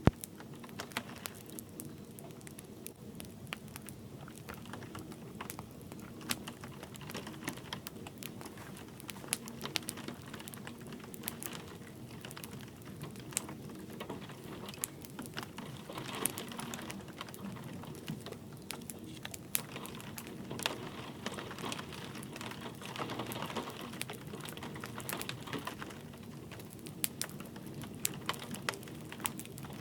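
Wood fire crackling in a fireplace: irregular sharp pops and snaps over a soft, steady hiss of light rain.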